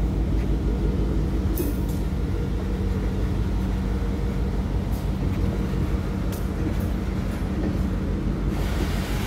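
Covered hopper freight cars rolling slowly past at close range: a steady low rumble of steel wheels on the rails, with a few short sharp clicks.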